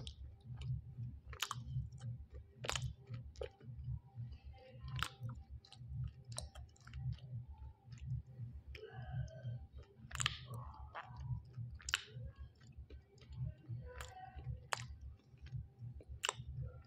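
Steady, closed-mouth chewing of a mouthful of clay, about two chews a second, with sharp wet mouth clicks scattered through. The clay is soft and only slightly crunchy, not gritty.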